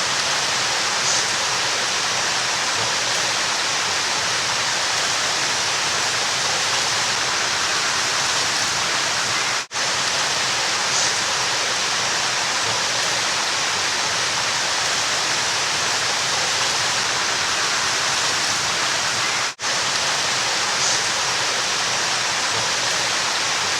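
River water rushing in a steady, even hiss. It cuts out for an instant twice, about ten seconds apart, as the recording repeats.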